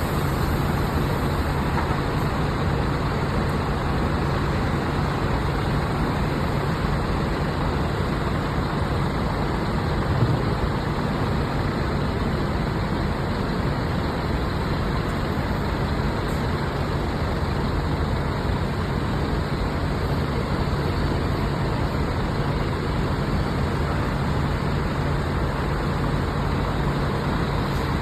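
Scania bus on the move: steady engine hum and road rumble, with a single brief thump about ten seconds in.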